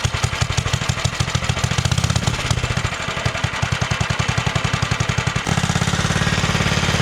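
Small 212cc single-cylinder minibike engine running with a fast, even putter, steadying and growing a little louder about five and a half seconds in. The engine's carburetor is out of tune and leaking fuel, and the owner suspects it needs replacing.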